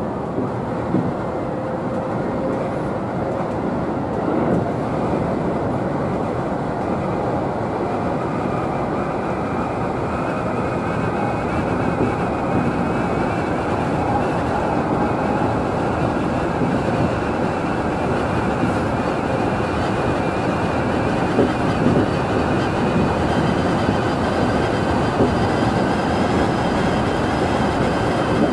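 A Tobu Utsunomiya Line local electric train running along the track, heard from inside the front of the car. There is a steady rumble of wheels on rails, and a faint whine slowly rises in pitch as the train gathers speed.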